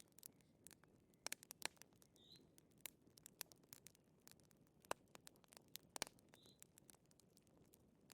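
Fireplace fire crackling softly: irregular small snaps and a few louder pops over a low hiss.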